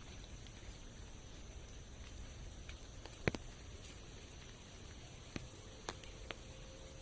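Rain in a forest: a soft, even patter with a few separate drops striking close by, the sharpest about three seconds in and three smaller ones near the end.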